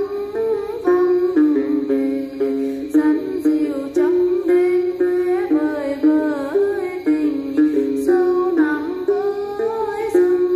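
Đàn tính lute plucked in a quick, repeating pattern of short notes, with a wavering, sliding melody line above it.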